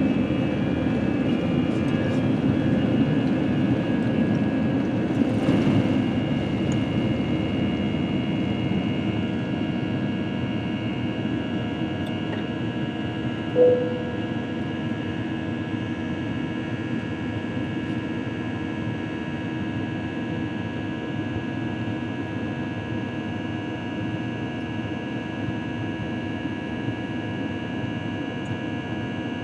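Steady cabin noise of an Airbus A321 jet airliner: engine and air drone with steady tones in it, easing slightly in level over time. A single brief tone sounds about halfway through.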